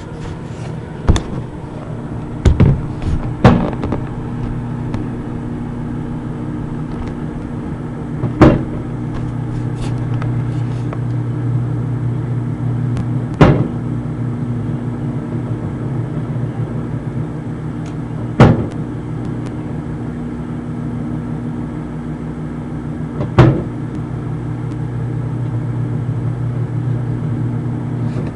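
Microwave oven running with a steady hum, heating an egg. A few knocks in the first few seconds, then a sharp click about every five seconds.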